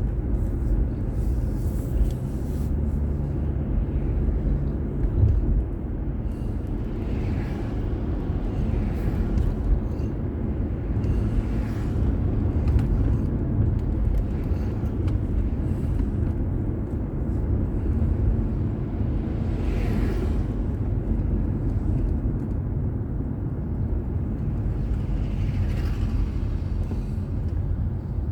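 Car road noise picked up by a drive recorder while driving: a steady low rumble of engine and tyres, with several brief swells of noise as traffic goes by.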